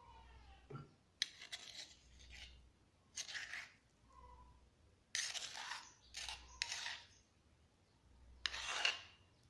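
Close-up eating sounds from a meal of smashed fried egg, sambal and rice: a series of short, crisp scraping and crunching bursts, each about half a second long, coming a second or two apart.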